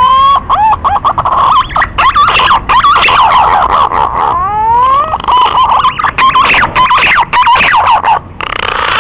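Green pigeon (punai) whistled song used as a hunting lure call: drawn-out rising whistles at the start and again about halfway, each breaking into fast warbling, wavering notes.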